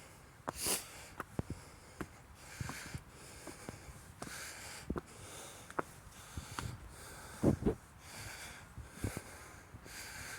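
A person breathing audibly close to the microphone, soft hissing breaths about once a second, with scattered footsteps and handling knocks; the loudest is a low thump about seven and a half seconds in.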